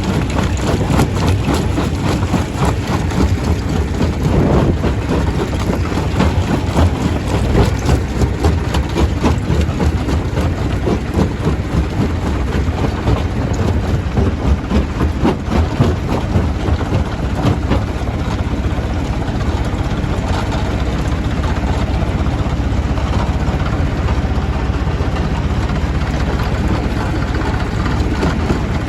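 Stone crusher running: a steady heavy engine drone with a dense, irregular clatter on top throughout.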